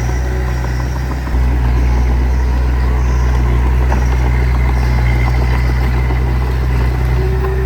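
Heavy diesel engine of earthmoving machinery running with a steady low drone, getting louder about a second and a half in.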